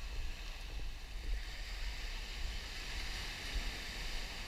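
Surf washing on a sandy beach, the hiss swelling and fading about midway, with wind buffeting the microphone in a low rumble.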